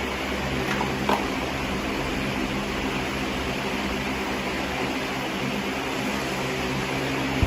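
Steady mechanical hum and whir that does not change, with a faint click about a second in.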